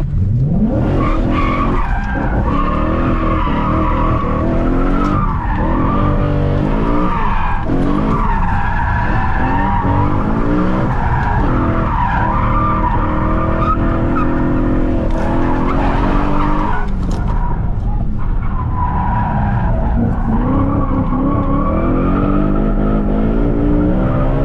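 BMW E92 M3's 4.0-litre V8 driven hard from inside the cabin, its revs climbing and dropping again and again through gear changes and corners, with the tyres squealing as the car slides.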